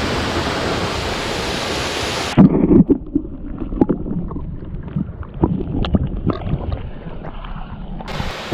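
A steady rush of falling water, then, after a cut, gusty wind buffeting the microphone with irregular low thumps and clicks.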